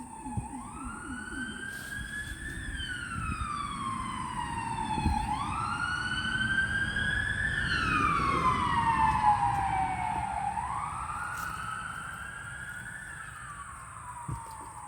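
Emergency vehicle siren wailing in slow rising and falling sweeps, about five seconds per sweep. It grows louder to a peak about eight or nine seconds in, then fades as it passes.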